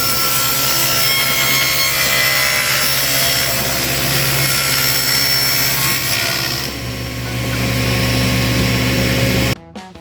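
Power saw running and cutting through a wooden board, a loud steady whine over rough cutting noise. Its pitch and tone shift about two-thirds of the way through, and it cuts off abruptly near the end.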